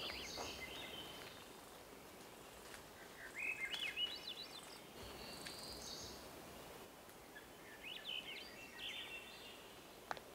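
A songbird singing, repeating a short phrase of quick rising and falling notes followed by a held high whistle about every four seconds, over a faint steady hiss. A single sharp click comes near the end.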